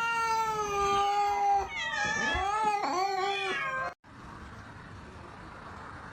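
A cat yowling: one long drawn-out call, then a second call that wavers up and down in pitch. Both end abruptly about four seconds in, and a steady background noise follows.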